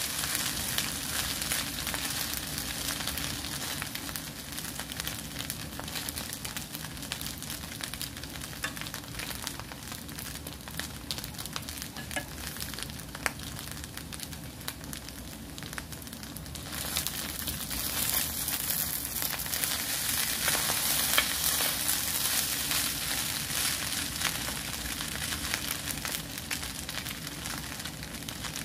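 Fried rice with beef and egg sizzling in a nonstick pan, with many fine pops, stirred with a wooden spoon at first. The sizzle gets louder a little past halfway through.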